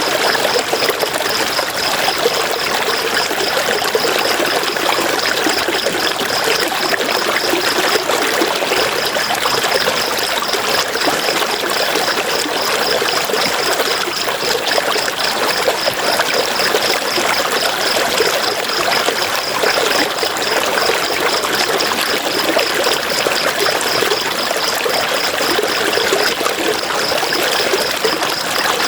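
River water rushing and splashing over rocks, a steady, unbroken flow. A high-pitched chirp pulses evenly over it, pausing briefly about eight seconds in.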